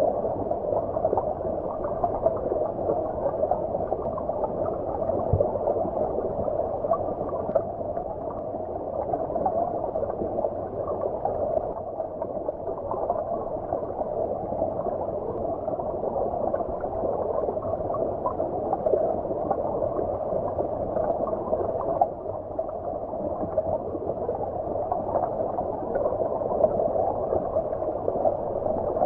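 Stream water flowing, heard as if from underwater: a steady, muffled rush with no high end.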